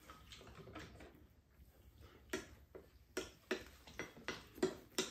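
People eating at a table: chewing, with short wet smacking clicks that come about three times a second from about two seconds in.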